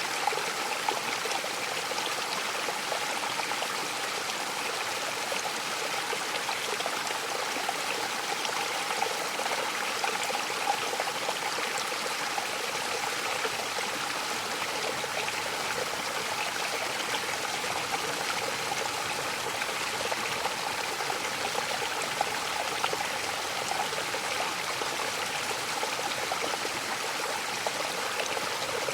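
Mountain waterfall: water splashing and rushing, a steady hiss with fine splashy crackle and no pauses.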